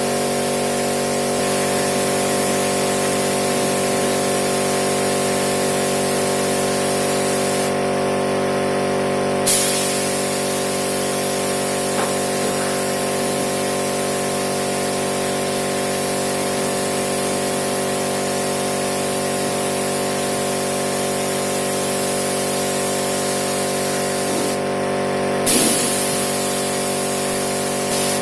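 Epoxy primer being sprayed: a loud, steady hiss that stops twice for a second or so and restarts each time with a short burst, over a steady hum.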